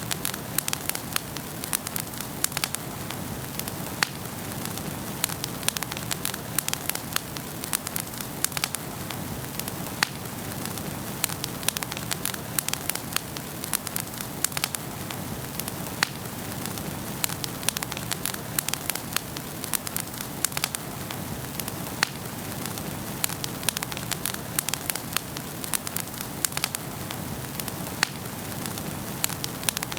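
Wood fire burning in a fireplace: dense, irregular crackling and sharp popping over a steady low rush of flame.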